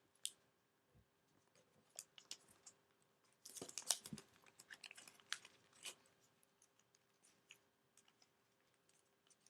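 Paper crinkling and rustling in short, scattered crackles as an origami model is folded and creased, busiest from about three and a half to six seconds in, over a faint steady hum.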